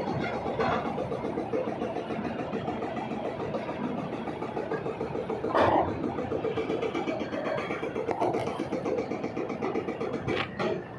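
Backhoe loader's diesel engine running steadily, with a sharp clank about halfway through and two more near the end.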